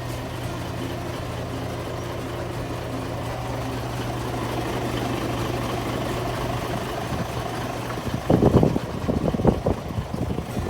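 Isuzu Giga heavy truck's diesel engine idling steadily; about eight seconds in, a run of irregular loud knocks or rustles breaks in, ending with a sharp click.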